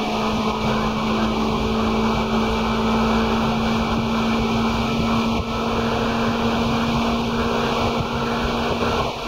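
Seibu 2000 series electric train (set 2055F) running, heard as a loud, steady hum from the traction motors and gearing over a constant rumble of wheels on rail.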